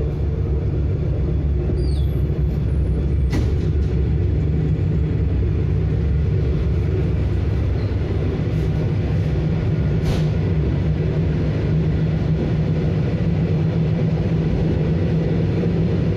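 Suburban electric train (elektrichka) pulling away from a platform and running, heard from inside the car: a steady low rumble, with two sharp knocks, one about three seconds in and one about ten seconds in.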